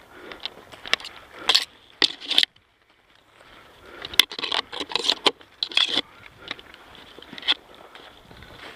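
Irregular crunching and scraping footsteps through dry brush and leaves, each step a short noisy burst, briefly dropping out a little over two seconds in.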